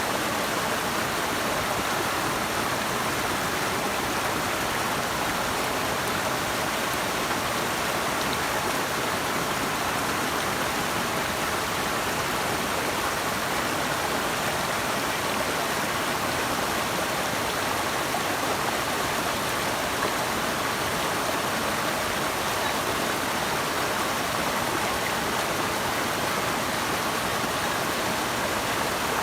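Rushing water of a river or waterfall: a steady, even rush with no breaks or changes.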